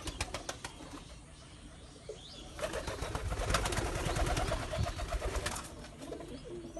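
Pigeons cooing, with a few sharp clicks in the first second and a burst of rustling noise lasting about three seconds in the middle.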